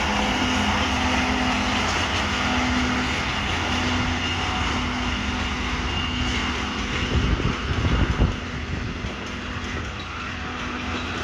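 Diesel-electric locomotive running with a steady, loud engine drone and a low rumble, with a short burst of heavy low thumps about seven to eight seconds in.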